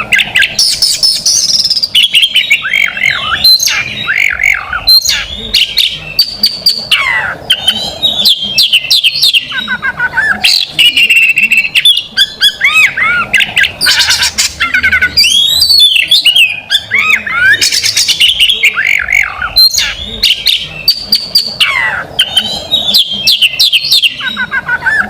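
Oriental magpie-robin (kacer) singing without pause: a loud, fast, varied song of sweeping whistled phrases mixed with short harsh notes.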